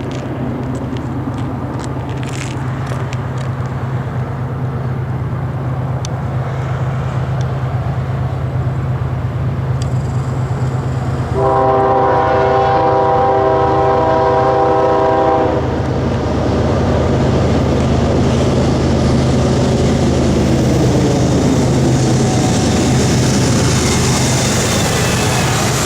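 Diesel train locomotive approaching with its engine running in a steady low drone. It sounds its air horn in one long chord of several tones, about four seconds long, partway through. The rumble and rail noise of the passing train then build toward the end.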